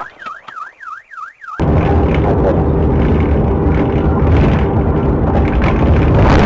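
An electronic siren-like tone warbling quickly up and down, about four sweeps a second, for a second and a half. It is then cut off by a sudden loud, steady rumbling noise.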